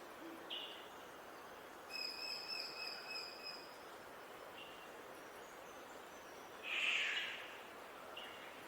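Wild birds calling over a steady outdoor hiss: a long held whistled note about two seconds in, a few short high chirps, and a louder buzzy call about seven seconds in.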